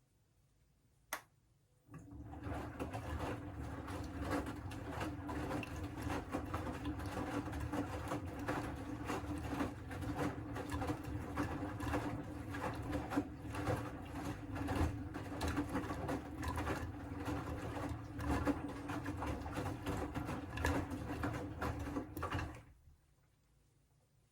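Siemens WM14T490 washing machine's drum turning with a grinding, rattling rumble over a steady motor hum, the sound of damaged drum bearings. It starts about two seconds in after a single click and stops abruptly near the end.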